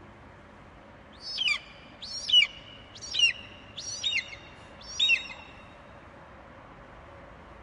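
Eagle screeching: a series of five sharp, high calls, each sliding quickly downward, about one a second, over a faint steady hiss.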